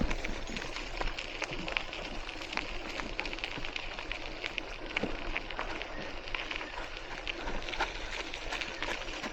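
Hiboy C1 e-bike rolling along a park path: the tyres give a steady crackle of many small irregular clicks over a low rumble.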